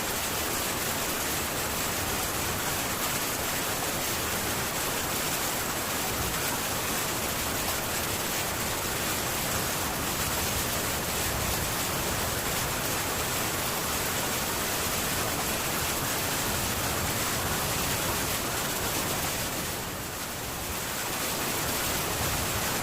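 Heavy rain drumming steadily on a metal tin roof, an even hiss that eases briefly near the end.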